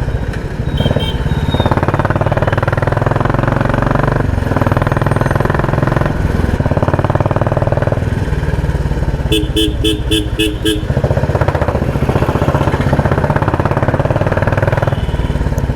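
Royal Enfield Classic 350 single-cylinder engine running through a loud exhaust, its fast exhaust beat steady throughout. About nine seconds in, a vehicle horn sounds a quick run of about six short beeps.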